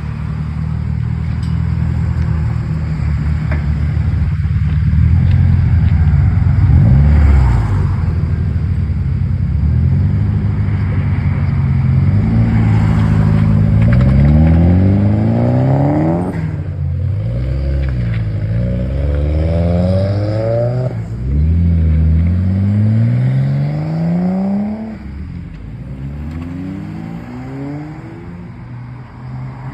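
A car engine running loud and revved several times in the second half, its pitch climbing over a few seconds and dropping back each time.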